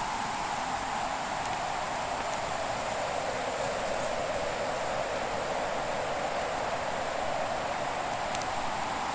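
Wood fire ambience: a steady rushing hiss whose strongest part slowly sinks and rises in pitch, with a few faint crackles.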